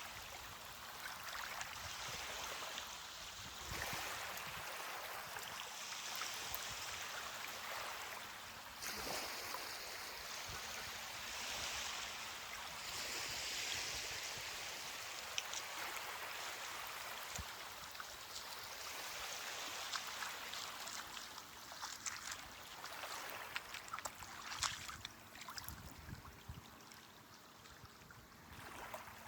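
Ocean waves washing onto a beach, a steady hiss of surf that swells and eases in slow surges, with scattered crackling clicks in the last few seconds.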